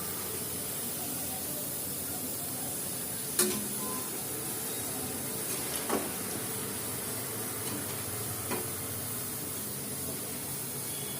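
Marinated chicken pieces sizzling steadily in hot oil in a kadai, with three sharp knocks of a utensil against the pan, the loudest about three and a half seconds in, as the fried pieces are lifted out.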